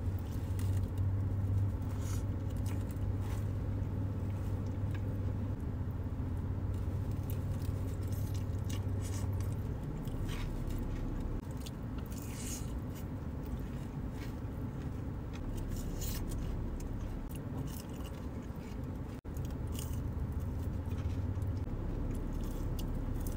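Close-miked eating of a Raising Cane's meal: biting into and chewing toast, a fried chicken finger and fries, with scattered crunches and wet mouth sounds. A low steady hum runs underneath for about the first ten seconds and again near the end.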